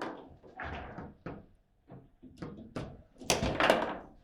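Table football in play: a rapid, irregular run of sharp knocks and clacks as the ball is struck by the players on the rods and bounces off the table, with the hardest, loudest strikes about three and a half seconds in.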